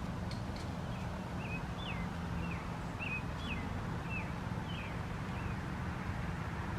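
A small bird chirping a run of about ten short, quick down-slurred notes, roughly two a second, over a steady low background hum.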